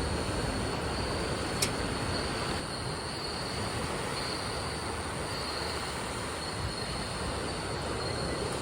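Steady rushing noise with a faint high whine over it.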